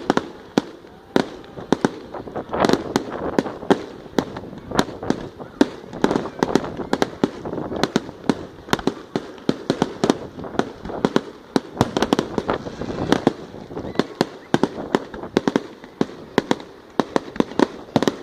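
Fireworks going off in rapid succession: a dense run of sharp bangs, several a second, with crackling between them.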